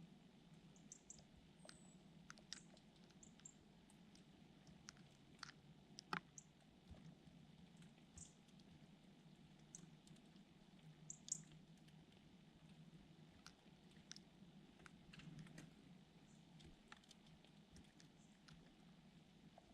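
Small birds heard close up: faint scattered clicks and taps, with a few brief high chirps, over a low steady hum.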